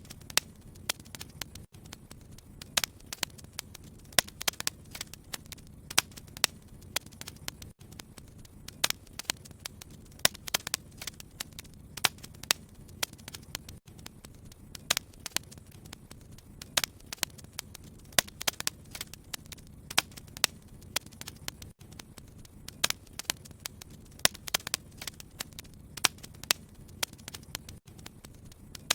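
Wood fire in a fireplace crackling, with many irregular sharp pops and snaps over a soft low rumble of the flames.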